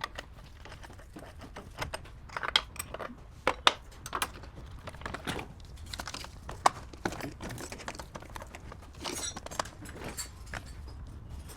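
Scattered light clicks, knocks and clinks of small hard objects being handled, over a low steady hum.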